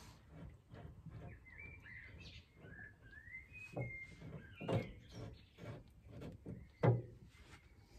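A small bird chirping in short gliding phrases, with a few sharp metal knocks from hand tools working on the rear suspension under a car. The loudest knock comes about a second before the end.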